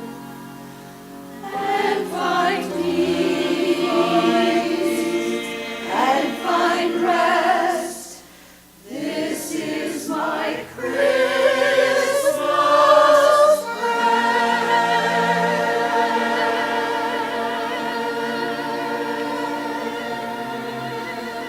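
Church choir singing a slow anthem in sung phrases, ending on a long held chord that slowly fades away.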